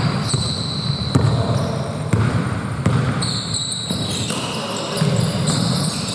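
Basketball game play on an indoor court: a ball bouncing on the hardwood about once a second, with high, shifting squeaks of sneakers on the floor in the second half.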